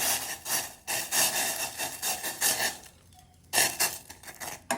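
Irregular scraping and rubbing noises in short bursts, from handling as blue flowers are put into water for tea. They pause about three seconds in, then start again.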